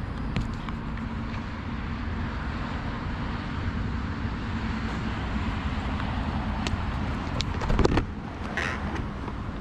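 Wind and road noise from an electric motorcycle being ridden at speed, with a faint steady tone for the first few seconds and a louder rush just before eight seconds in.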